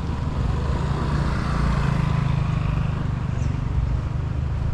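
A motor vehicle's engine running, with a low steady hum that swells between about one and three seconds in and then eases, as if a vehicle passes.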